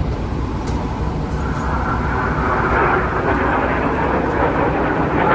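Jet aircraft flying overhead in a display: a steady, loud rushing jet roar that swells about a second and a half in.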